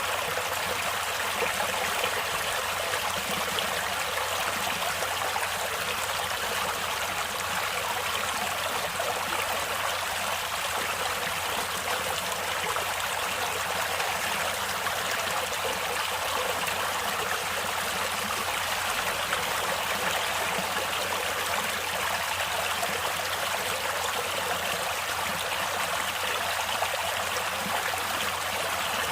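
Stream water flowing, a steady, even wash of sound with no change in level.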